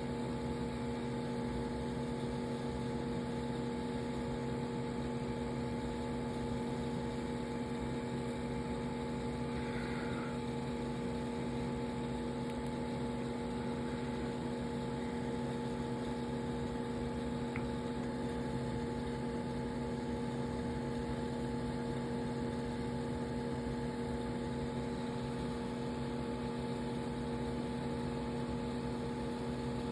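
Aquarium pump humming steadily, with a few fixed tones over a low whir.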